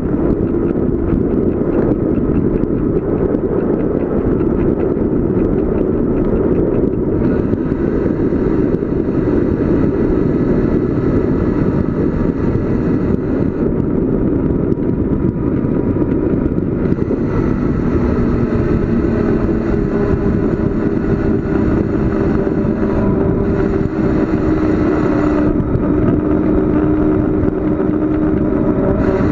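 Steady loud rush of wind on the microphone and tyre noise during a fast bicycle descent, with a faint steady hum underneath.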